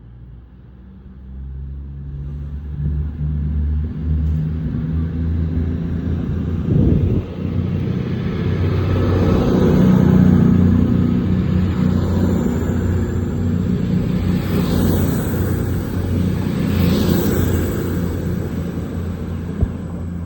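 Voyager diesel multiple unit pulling away, its underfloor diesel engines running with a low throbbing rumble. The rumble builds for the first ten seconds or so, then carries on steadily.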